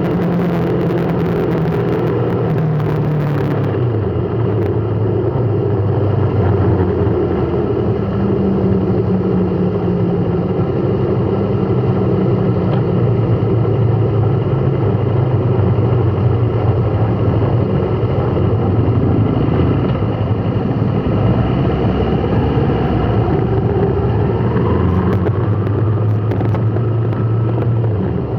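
Motor vehicle running steadily, a continuous low engine hum under road noise, with a faint rising tone about three quarters of the way through.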